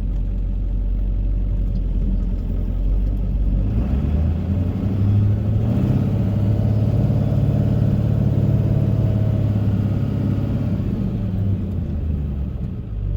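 Ford 7.3 Powerstroke turbo-diesel V8 in the F-350 running steadily low, then revving up about four seconds in and holding under load before easing off near the end.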